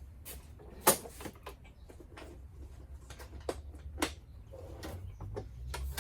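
A series of scattered light clicks and knocks, the sharpest about a second in, from handling a walk-behind lawn mower while getting it ready to start, over a low steady hum; the sound builds near the end.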